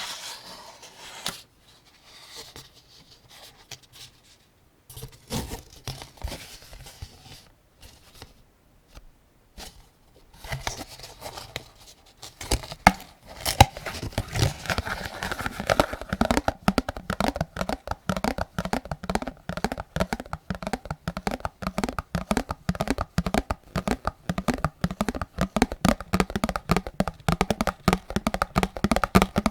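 AK-47 75-round drum magazine being handled: scattered rustling at first, then from about ten seconds in a fast, even run of sharp metallic clicks.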